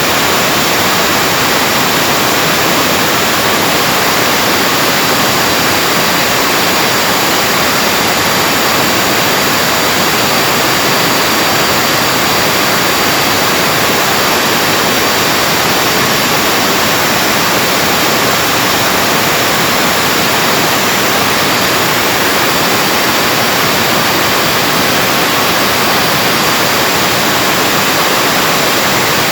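Vacuum cleaner's brushed motor running steadily at speed, a loud even rush of air with a thin high whine. Its commutator is being polished with a volcanic stone to cure heavy sparking from a crust left by overheated carbon brushes.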